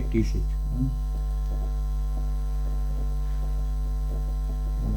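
Steady electrical mains hum, a low buzz with several overtones, picked up by the recording setup, with a few faint clicks scattered through it.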